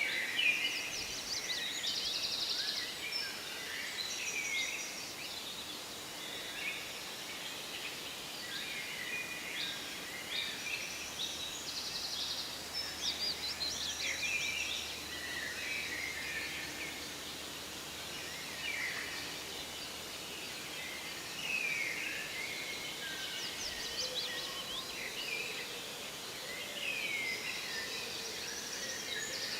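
Forest birdsong: several small birds chirping and trilling at once, with rapid high trills and short downward-sliding calls, over a faint steady background noise.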